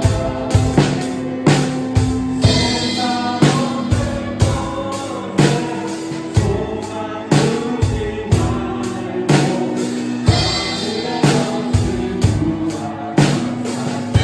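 Drum kit played along with a recorded contemporary Christian worship song with singing, the kick and snare keeping a steady beat.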